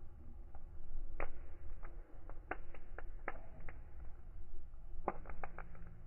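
Wood fire crackling: irregular sharp pops and snaps over a low steady rumble, with a quick cluster of snaps about five seconds in.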